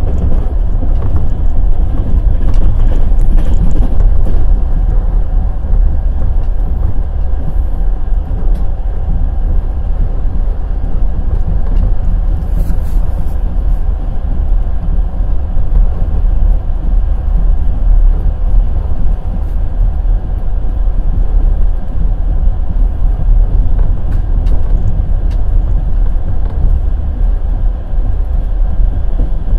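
Wheels of a passenger express train rumbling on the rails at speed: a steady, loud, deep rumble with a few clicks in the first few seconds and a short hiss near the middle.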